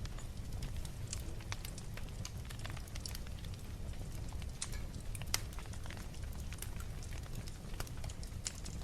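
Wood fire crackling in a fireplace: irregular small pops and snaps over a steady low rumble, with one sharper pop about five seconds in.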